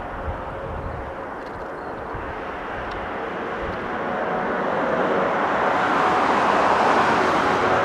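Four CFM56 turbofan engines of an Airbus A340-300 at takeoff thrust: a steady jet rush with a faint whine in it, growing steadily louder as the airliner comes nearer.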